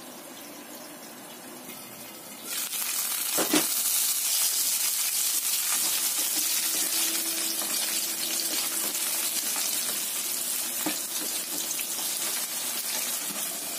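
Diced potatoes sizzling in hot oil in a nonstick frying pan, muffled and quiet at first under the lid, then much louder and brighter from about two and a half seconds in. A sharp knock comes about three and a half seconds in and a smaller one near eleven seconds.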